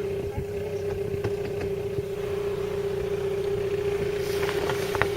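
A boat's motor running steadily, with a constant hum and an even drone underneath.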